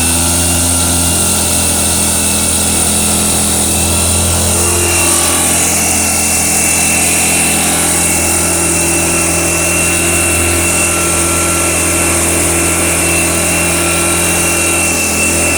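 Small engine of an orchard spraying machine (fertilizer and spray pump) running steadily, freshly started, its speed settling in the first second.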